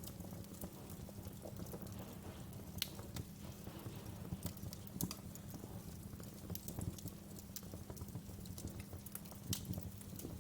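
Wood fire crackling: irregular sharp pops and snaps over a low, steady background.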